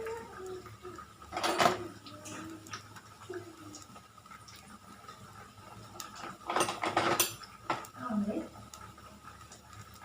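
Metal kitchen utensils clattering against cookware in two bouts, a short one about a second and a half in and a longer one past the middle.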